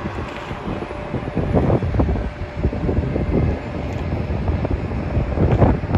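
Low, uneven rumble of airport noise, with wind buffeting the microphone in irregular low thumps.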